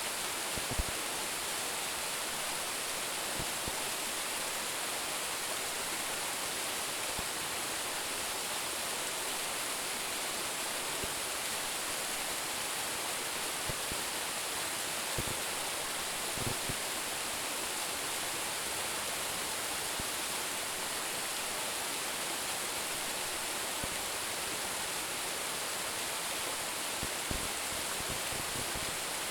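A waterfall with a drop of about ten metres, its water rushing steadily with a bright hiss, broken by a few brief faint low knocks.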